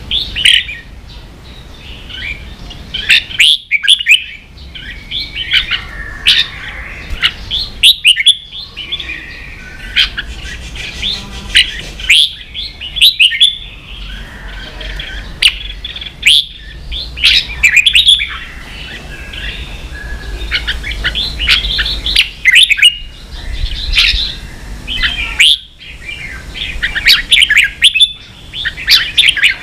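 Red-whiskered bulbul singing: short phrases of quick, sweeping whistled notes repeated every second or two.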